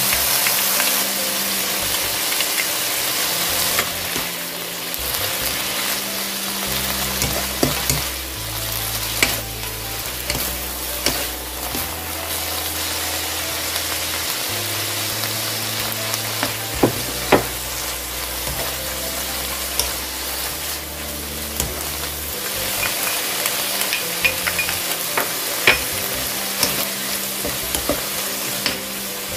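Soybean sprouts sizzling as they are stir-fried in a large pan over high heat, the moisture cooking off, with occasional sharp clicks of the stirring utensil against the pan.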